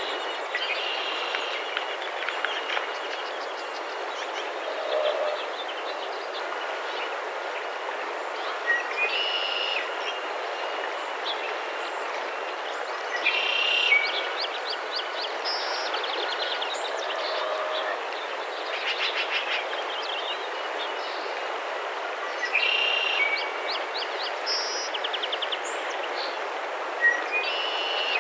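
A songbird singing short trilled phrases again and again, every few seconds, over a steady background noise.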